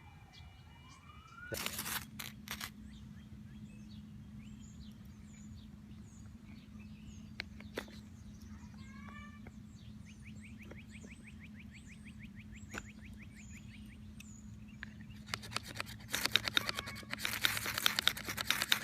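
A distant siren wails down and back up at the start. A few sharp scrapes of a fire steel (ferro rod) follow about two seconds in, over a steady low hum with scattered bird chirps. Near the end comes a fast run of loud ferro-rod strikes, throwing sparks onto cottonwood fungus dust that will not catch.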